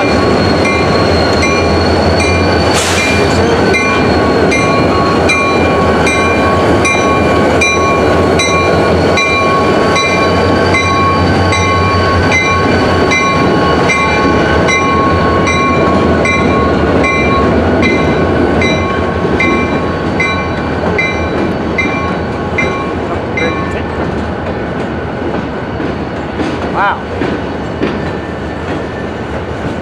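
Union Pacific diesel locomotives roll past with a steady low engine rumble, followed by a long string of tank cars. Their wheels click about twice a second over steady high-pitched ringing tones. The sound eases off in the second half as the locomotives move away, and the clicking stops near the end.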